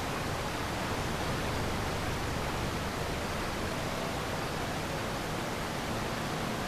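Steady, even rushing noise with no pitch or rhythm, like a hiss or rush of static.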